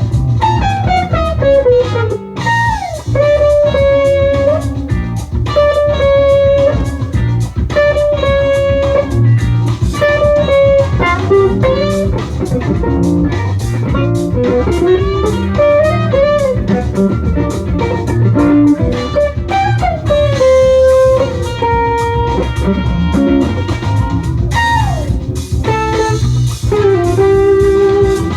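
Jazz-funk fusion band music: a lead electric guitar plays the melody with frequent string bends and slides over bass guitar and drum kit.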